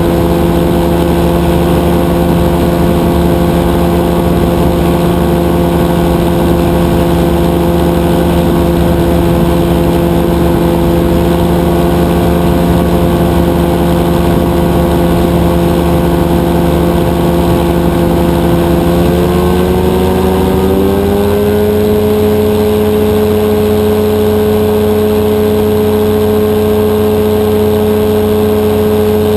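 Rotax 582 two-stroke twin engine of a powered parachute running steadily, its pitch rising a little about 19 seconds in, then holding at higher revs.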